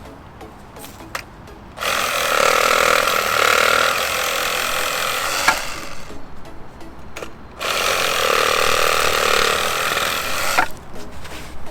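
Makita JR104D 10.8 V cordless reciprocating saw with a pruning blade cutting through thin branches in two runs of a few seconds each, with a short pause between them.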